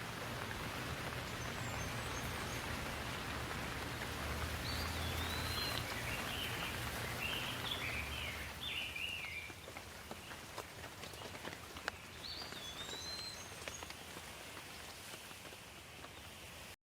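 Steady rain falling, heavier for the first half and then easing to a lighter patter with scattered drips. A bird calls in a run of short whistled chirps around the middle, and again with a couple of rising-and-falling whistles near the end.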